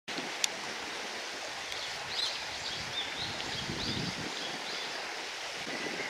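A bird calls a quick run of short high chirps from about two seconds in, over a steady rushing outdoor noise. A single sharp click sounds just before.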